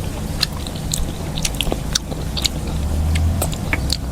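Close-miked chewing of a mouthful of food: scattered wet mouth clicks and smacks at irregular intervals, over a low rumble that grows louder in the second half.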